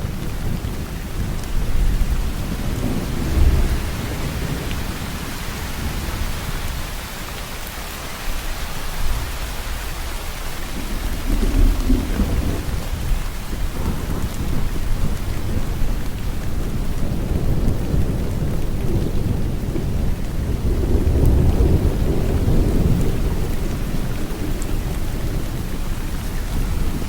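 Steady rain falling, with low rolling thunder that swells and fades three times: near the start, in the middle and again late on.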